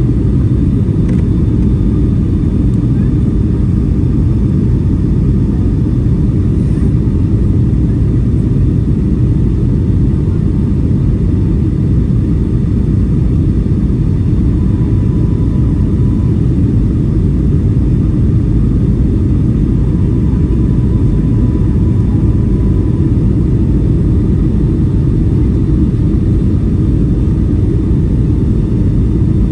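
Steady low rumble of a Boeing 757-300 in flight, the engine and airflow noise heard from inside the cabin, unchanging throughout.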